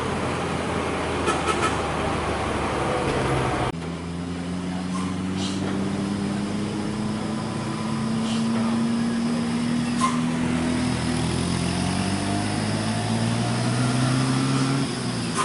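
Diesel engine of a heavily loaded coal truck labouring up a steep grade, its pitch rising slowly as it pulls; the truck is overloaded. The sound changes abruptly about four seconds in.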